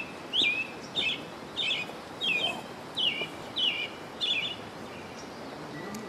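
A bird calling over and over: short, sharp calls, about two a second, each a quick upward sweep that drops into a stepped note. The calls stop about four and a half seconds in, leaving a steady background hiss.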